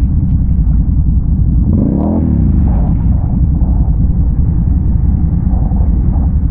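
ATV engine running at low revs, with one brief rev that rises and falls in pitch about two seconds in.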